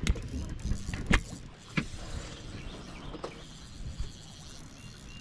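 Fishing reel working against a hooked catfish, with the drag set loose enough that the fish is taking line. A few sharp clicks come in the first two seconds, over a steady low mechanical rumble.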